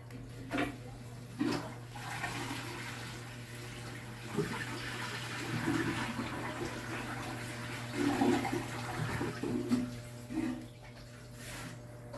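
Toilet flushing, water rushing through the bowl for several seconds and dying away near the end, after a few sharp knocks in the first couple of seconds.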